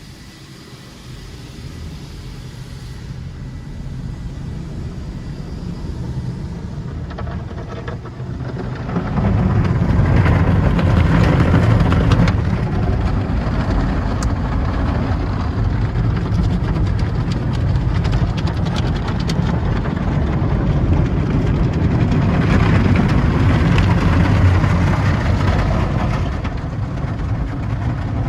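Automatic tunnel car wash working over a car: a steady mix of machinery rumble and water and wash-material noise. It builds gradually, then gets louder about nine seconds in and swells twice.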